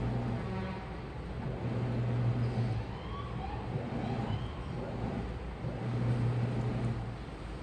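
Washing machine running: a steady churning noise with a low motor hum that swells and drops away every couple of seconds. A few short faint squeaks come about three to four seconds in.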